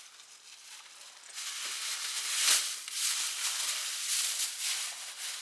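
Rustling and crinkling of material being handled and folded up, getting louder about a second and a half in.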